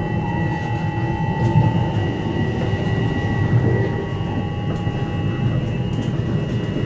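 Commuter train running, heard from inside the car: a steady low rumble of wheels on track, with a constant high whine over it.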